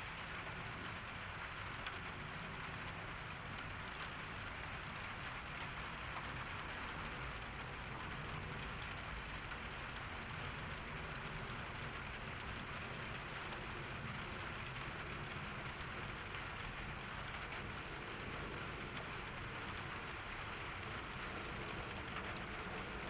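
Steady rain falling in a garden, an even hiss of drops without a break.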